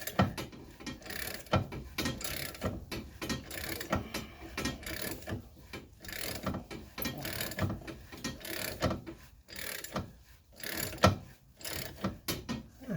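A ratchet wrench clicking over and over as it cranks the forcing screw of a ball joint press. The press is driving a stuck sway bar end link shaft out of a lower control arm bushing, and the shaft is now moving and getting steadily easier.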